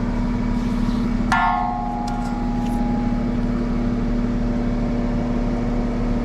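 An engine idles with a steady drone. About a second in, a single sharp metal clang rings out and fades over a second or two.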